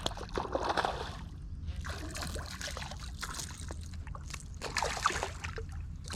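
Water splashing and trickling as a hooked bass is brought alongside and lifted into a kayak, with scattered light knocks and clicks of handling.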